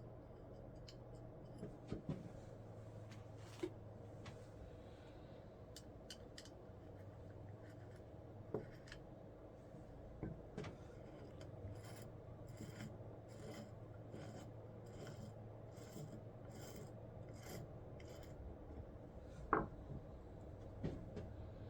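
Faint hand-tool work on small parts: a run of rasping strokes, about one and a half a second, in the second half, with a few light knocks, the loudest near the end, over a steady low hum.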